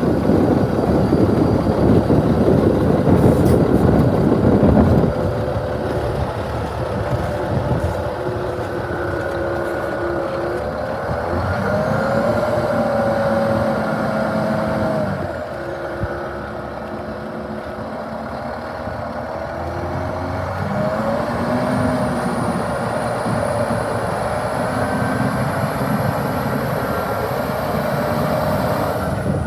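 Diesel engine of a 2005 International 8600 truck tractor running. Its pitch rises and holds twice as it is revved, settling back to a lower drone in between. A loud rushing noise covers the first few seconds.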